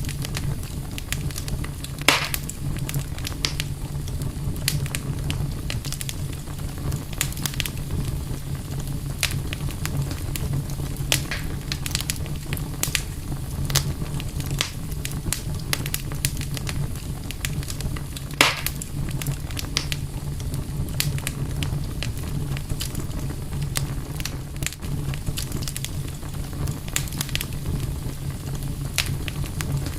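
Wood campfire crackling, with frequent sharp pops over a steady low rumble; two louder pops come about two seconds in and about eighteen seconds in.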